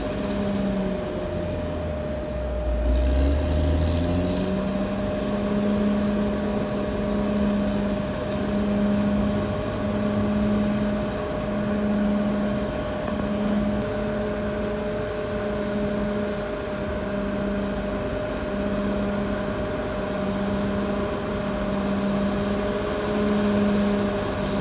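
Caterpillar D6R XL bulldozer's diesel engine running as it works, its pitch dipping briefly about two to three seconds in and recovering. A low drone swells and fades about every second and a half over a steady higher whine.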